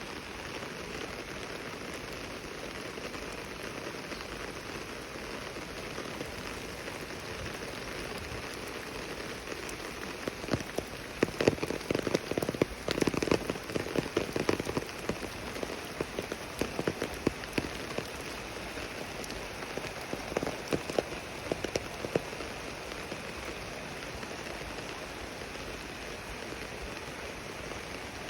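Steady rain falling. From about ten seconds in until about twenty-two seconds, a run of sharp, louder taps of close drops rises over it.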